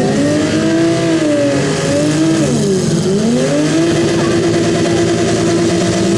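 Demolition derby car engines revving hard, the pitch rising and falling several times, then held high for the last couple of seconds.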